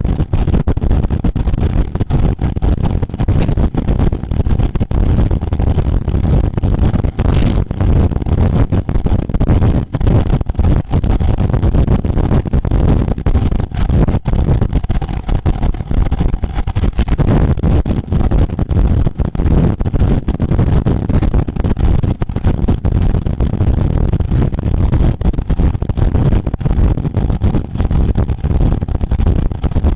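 Steady, loud wind buffeting the microphone of a camera moving with the bicycles at race speed, a low, flickering rumble with no break.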